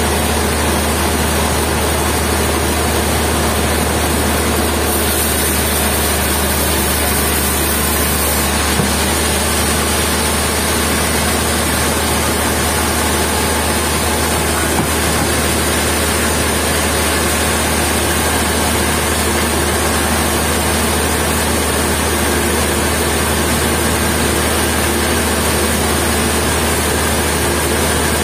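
Sawmill machinery running steadily with a constant, loud engine-like drone and no change in pitch or load.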